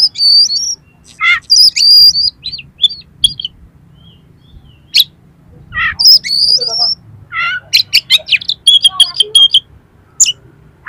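Oriental magpie-robin (kacer) singing in short, loud phrases of whistles and harsh, rough notes, with a fast run of sharp chattering notes about three quarters of the way through.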